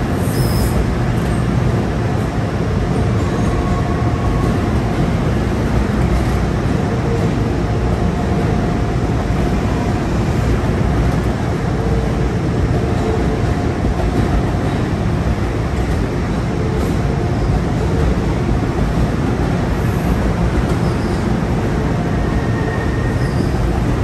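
Train running at a station platform: a steady low rumble with faint whining tones that come and go.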